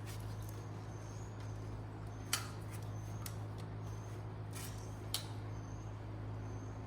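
Small metal parts clinking sharply twice as truck suspension bushing hardware is handled, over a steady low hum.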